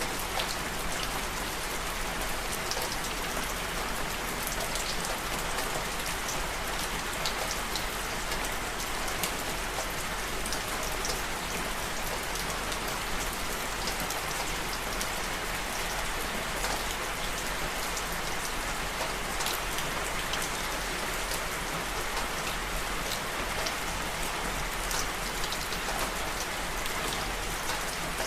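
Steady rain falling on surfaces, a constant hiss with many small individual drops ticking through it.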